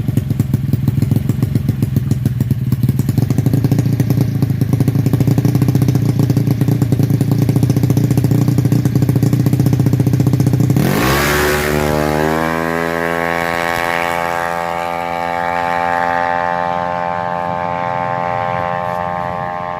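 Yamaha Mio scooter's single-cylinder four-stroke engine through an aftermarket MCC stainless exhaust, running at low revs with a loud, pulsing low note. About eleven seconds in it revs up sharply and holds a high, steady pitch as the scooter pulls away.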